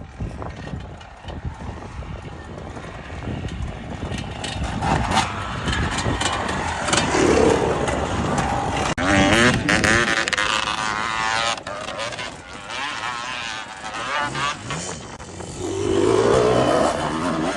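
Off-road enduro motorcycle engine revving hard and easing off repeatedly, its pitch rising and falling. There are louder surges about halfway through and again near the end.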